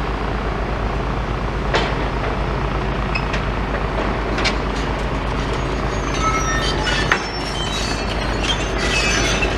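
Diesel engines of demolition excavators running steadily, a low even drone, with a few sharp metallic knocks while one machine changes its attachment.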